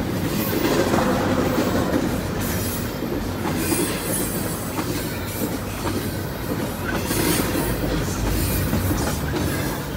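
Double-stack intermodal freight train rolling past: a steady rumble of wheels on rail, with scattered clicks as the cars go over the track.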